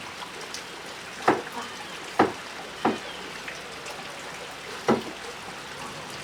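Water running with a steady hiss while a farm tractor is cleaned, with four short sharp splashes or knocks at uneven intervals, each falling quickly in pitch.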